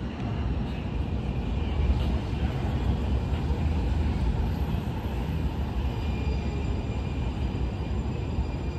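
A steady low rumble of a train close to the rail crossing, with a few faint high steady tones above it.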